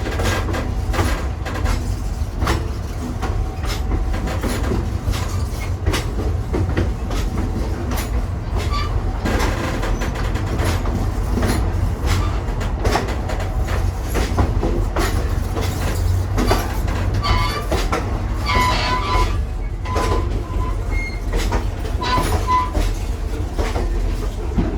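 A moving passenger railcar heard from inside the car: a steady low rumble with irregular clicks from the wheels on the track. Short high squeals come in the second half.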